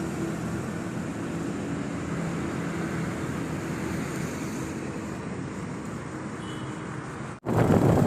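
Motorcycle ride on a highway: a steady engine hum under even road and traffic noise. Near the end it breaks off abruptly and gives way to a louder, even rushing noise.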